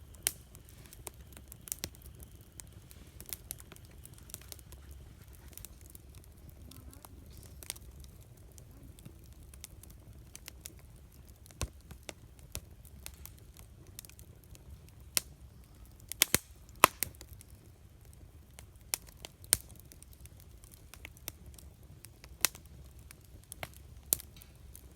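Wood campfire crackling, with sharp pops at irregular intervals and a loud cluster of pops about two thirds of the way in, over a faint low rumble.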